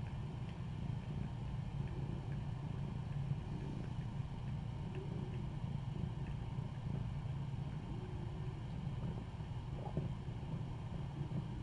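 A cat purring steadily: a continuous low, finely pulsing rumble.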